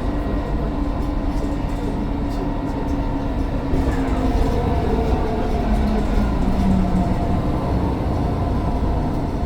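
Mercedes-Benz Citaro O530 bus's diesel engine running under way: a steady low rumble with engine tones that drop about four seconds in and climb again a couple of seconds later, over a faint high turbo whine.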